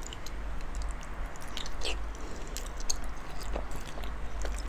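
A person chewing and biting food close to the microphone, with short wet mouth clicks scattered through, over a low steady hum.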